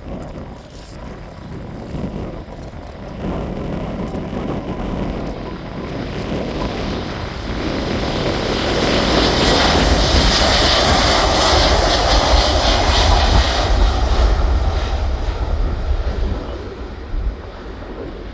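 Jet airliner taking off: the engine roar builds, peaks about ten to fourteen seconds in as the aircraft passes, then fades away.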